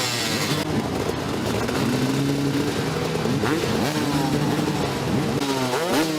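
Dirt bike engines revving hard. Their pitch repeatedly climbs and drops as they accelerate and shift, with a sharp rising rev near the end.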